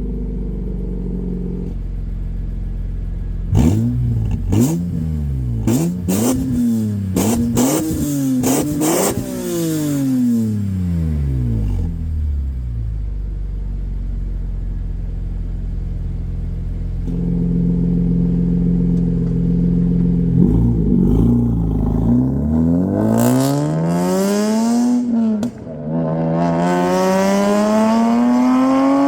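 BMW E46 M3's S54 straight-six through a Valvetronic valved exhaust: idling, then a run of quick free revs blipping up and down for several seconds before settling back to idle. Near the end it accelerates hard up the rev range, breaks briefly for an upshift, and climbs again.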